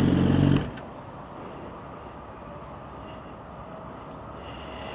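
Suzuki GSX-R1000 inline-four engine running steadily at idle, then cutting off abruptly with a click about half a second in, leaving a quiet steady hiss.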